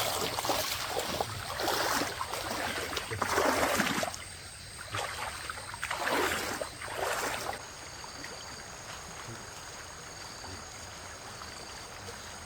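Water splashing in irregular bursts, as of someone wading through a shallow stream, for the first half; after that only a steady low rush of flowing stream water.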